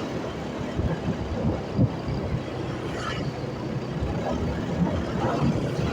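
Motorcycle riding along the road: a steady low rumble of engine and road noise.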